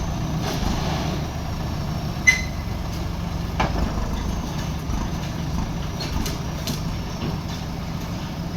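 Diesel engine of a JCB 3DX backhoe loader running steadily, with a few sharp metallic clanks over it, the loudest about two seconds in.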